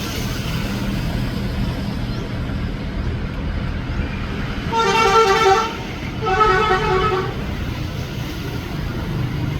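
Boat engine running with a steady low rumble, and a horn sounding two blasts of about a second each, a short gap between them, midway through.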